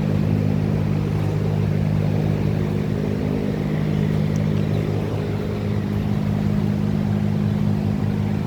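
Ford 5.4-litre V8 engine idling steadily, an even low drone with no change in speed.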